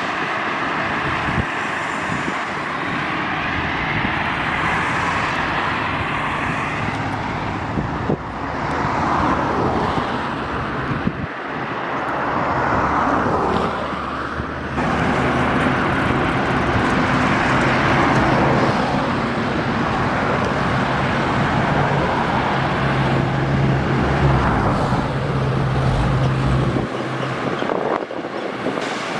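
Highway traffic passing close by: trucks and cars go past one after another, their tyre noise swelling and fading. From about halfway a heavy truck's low engine drone holds steady for around ten seconds.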